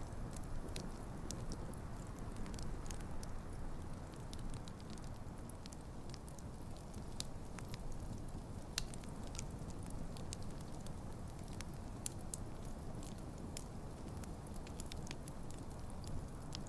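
Wood campfire burning, with a steady low rush of flames and frequent sharp crackles and pops scattered irregularly throughout.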